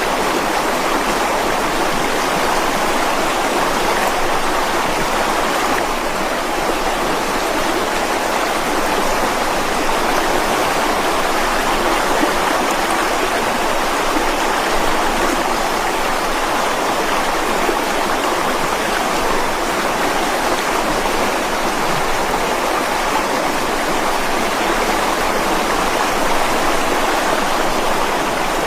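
Mountain stream flowing steadily over rocks: a constant, even wash of water noise with little low rumble.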